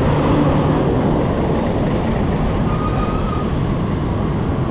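Steady road traffic noise heard from a bicycle on a busy road: vehicle engines running close by under a dense low rush of noise, with a brief faint high tone about three seconds in.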